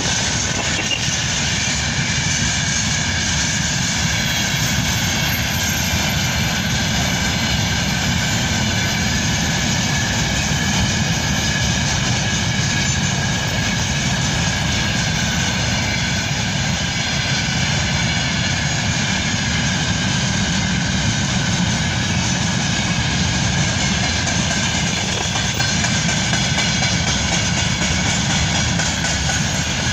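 Freight train hauled by a VL10U electric locomotive running, a steady rumble with a constant high whine over it.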